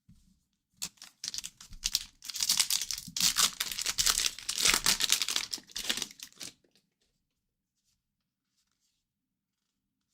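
A hockey card pack's wrapper being torn open and crinkled by hand, a rough crackling that lasts about five seconds and then stops.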